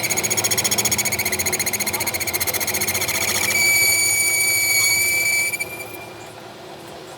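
A motor-driven tool's high-pitched whine, fluttering rapidly at first, then running steady and slightly louder, before cutting off suddenly about five and a half seconds in.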